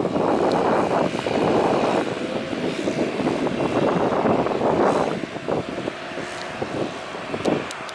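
Strong wind buffeting the microphone in gusts, with a faint steady jet-engine whine underneath from a Boeing 777-200.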